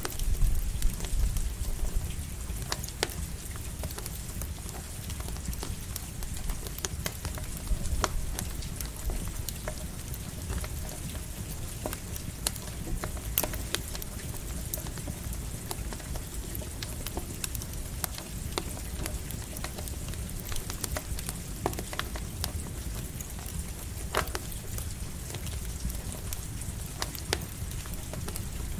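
Campfire crackling with scattered sharp pops over a steady patter of light rain. A low rumble of thunder underneath is loudest in the first couple of seconds.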